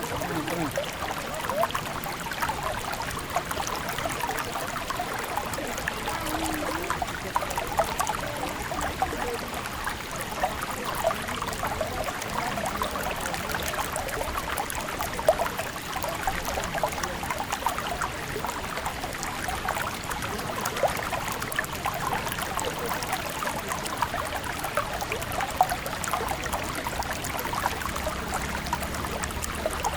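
River water running and burbling steadily, a constant rush dotted with many small rapid splashes and gurgles.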